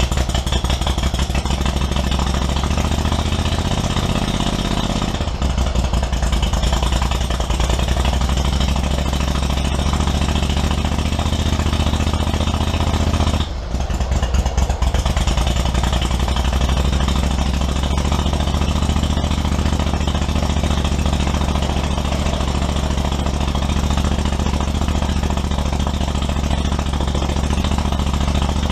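Kohler Command 25 V-twin engine of a zero-turn mower running steadily, with a brief drop in level about 13 seconds in.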